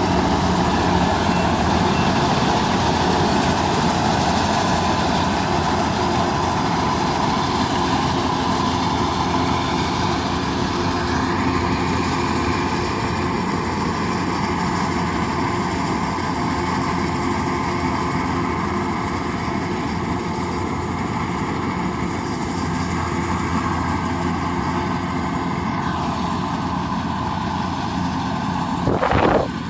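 Kubota DC108X rice combine harvester running steadily under load, its engine and threshing machinery giving a continuous drone, with a short louder noise near the end.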